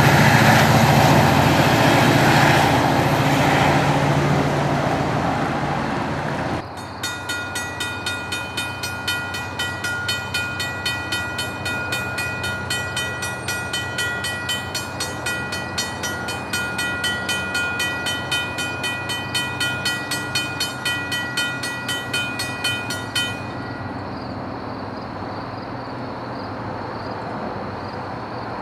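Metro-North GP40FH-2 diesel locomotive running loudly as its commuter train passes. After an abrupt cut a few seconds in, a grade-crossing bell rings in even strokes, about three a second. The bell stops about 23 seconds in, leaving a steady low background.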